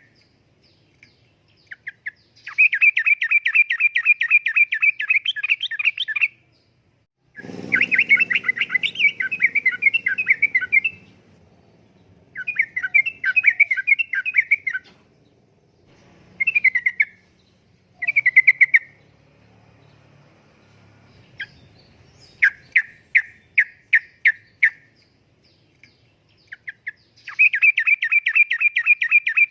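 Yellow-vented bulbul (trucukan) singing: phrases of rapid, bubbling repeated notes, each a second to four seconds long, coming again and again after short pauses. Under one phrase about seven seconds in there is a brief low rumble.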